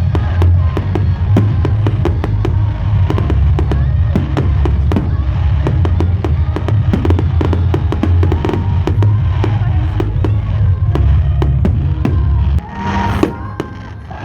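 Fireworks display: a dense barrage of rapid bangs and crackles over a continuous heavy low rumble. It stops abruptly near the end, leaving quieter crowd voices.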